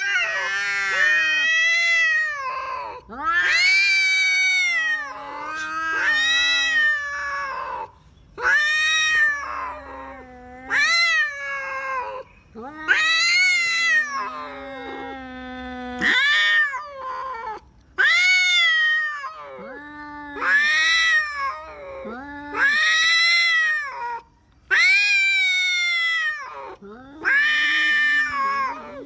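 Tomcats caterwauling at each other before a fight: long, wavering yowls that rise and fall, one after another, with a lower drawn-out moan held under several of them.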